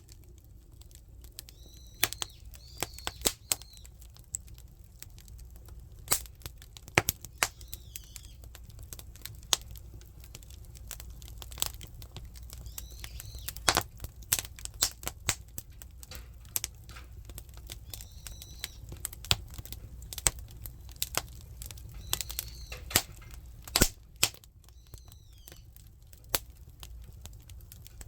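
Firewood burning in a traditional Korean wood-fired kitchen stove (buttumak): irregular sharp crackles and pops over a low steady rumble.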